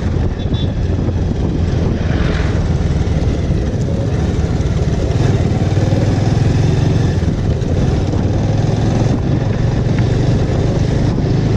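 Bajaj Avenger motorcycle running steadily under way, its engine sound mixed with steady rushing road noise.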